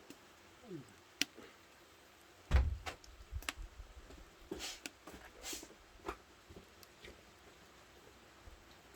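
Scattered knocks and clatter of objects being handled and set down, with one heavy thump about two and a half seconds in.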